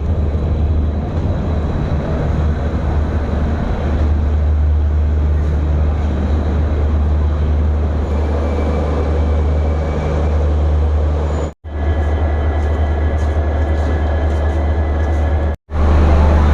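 Passenger train running along the track: a steady, loud, low rumble with rail noise. It breaks off for an instant twice near the end.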